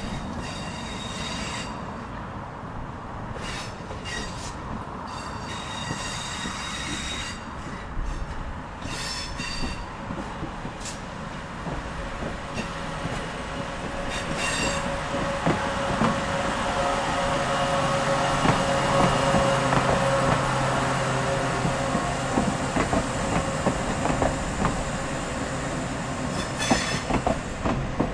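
Hydrogen fuel-cell converted electric multiple unit (Class 614, ex-Class 314) approaching and passing close by. In the first half there are short, repeated high-pitched wheel squeals. The sound then grows louder as the train goes by, with a steady electric drive hum and the clicks of wheels over rail joints.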